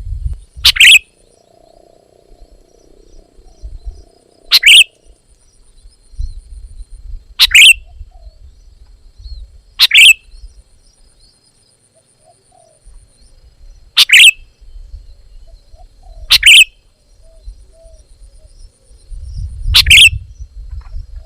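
Sooty-headed bulbul giving short, loud, sharp calls, seven in all, one every two to four seconds, with a low rumble at times between them.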